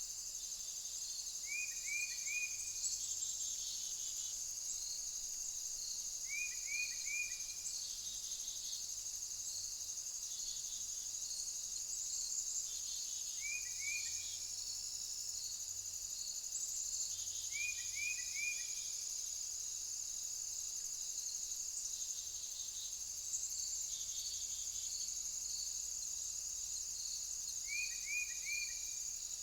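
A steady high chorus of crickets or bush-crickets, trilling and pulsing. A lower call of three quick falling notes, from an unidentified source, repeats about five times, several seconds apart.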